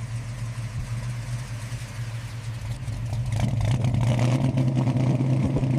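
Ford car engine running at a steady idle, then picking up revs about three and a half seconds in.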